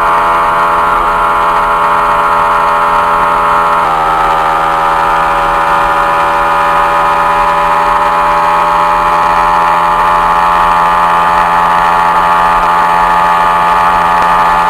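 Yamaha MT-15 motorcycle's single-cylinder engine running steadily, its pitch stepping down slightly about four seconds in and then slowly rising.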